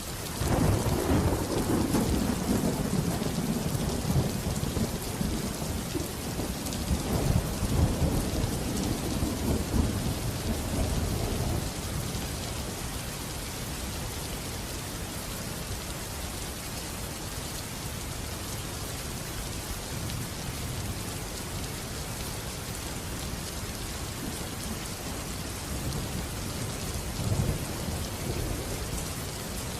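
Steady heavy rain with a long roll of thunder that breaks just after the start, rumbles on in waves and fades out about twelve seconds in; a smaller rumble swells briefly near the end.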